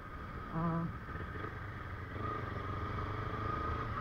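Kawasaki Ninja 250R's parallel-twin engine with an R9 Racing aftermarket exhaust, running steadily with no revving; a steady high whine joins about two seconds in.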